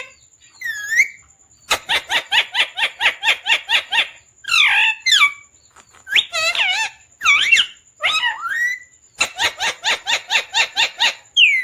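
Pet parrot calling: two fast runs of short repeated squawks, about five a second, with drawn-out calls that bend up and down in pitch between them.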